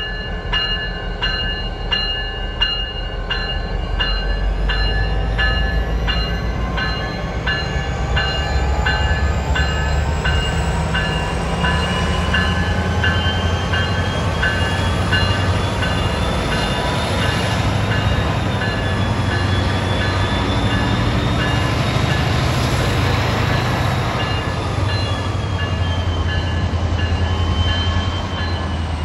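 A freight train rolling past with a steady heavy rumble. Over the first several seconds a ringing repeats about two to three times a second and then fades, and later a thin wavering whine comes and goes over the rumble.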